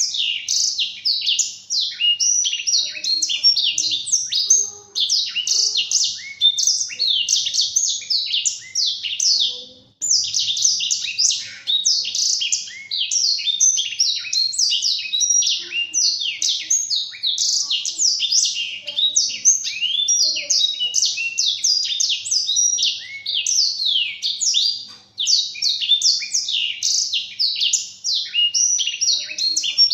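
Black-throated canary (blackthroat) singing a long, fast, continuous warble of rapid high down-sweeping notes, with brief breaks about 4, 10 and 25 seconds in.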